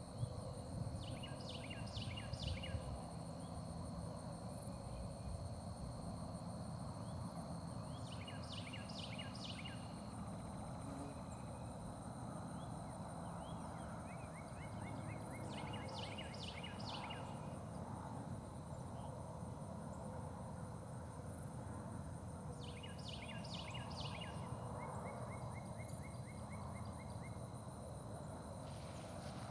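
A songbird singing the same short song about every seven seconds: a quick run of sharp falling notes followed by a fast dry trill. A steady high-pitched whine runs underneath.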